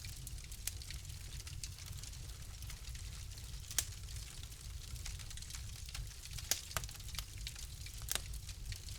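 Fire crackling in a fireplace: a steady low rumble and hiss with irregular sharp pops and snaps, a few louder ones from about four seconds in.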